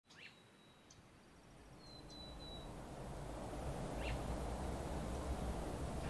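Birds calling: a few short high calls, one near the start and another about four seconds in, and a thin high whistle in the first couple of seconds, over a low background rumble that grows louder from about two seconds in.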